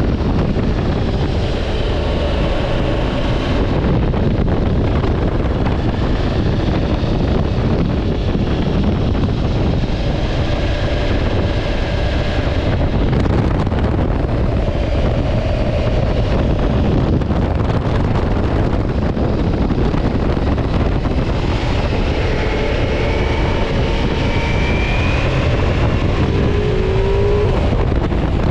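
Ducati Multistrada V4 S motorcycle riding at speed, heavy wind rush over the microphone with the engine note beneath it, rising in pitch a few times in the second half.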